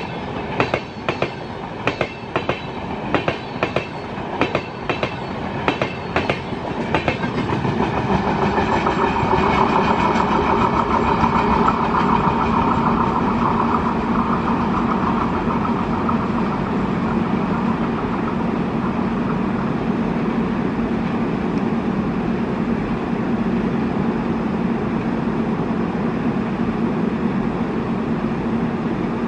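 LHB passenger coaches of an express train rolling past, their wheels clicking rhythmically over rail joints for about the first seven seconds. The clicking then gives way to a steady rumble and hum of the train on the rails that lasts to the end.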